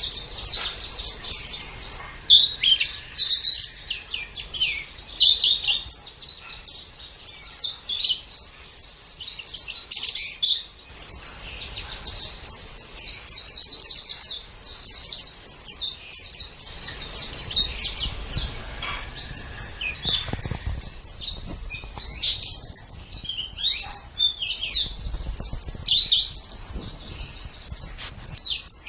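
Pleci (white-eye) singing a long, fast, unbroken twittering song of rapid high chirps.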